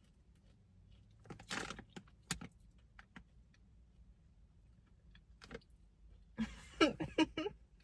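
Someone chewing a salted egg yolk snack: scattered crunches and mouth clicks, with a louder cluster near the end.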